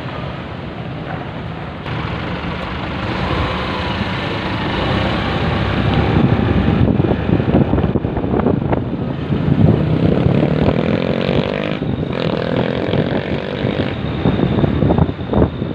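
Motorcycle riding in traffic, with wind buffeting the microphone over the engine. About ten seconds in, the engine note rises as it picks up speed.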